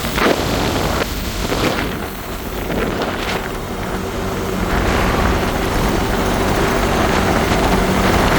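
Motorcycle engine running on the move, with wind buffeting the microphone; the engine's steady note gets louder about five seconds in.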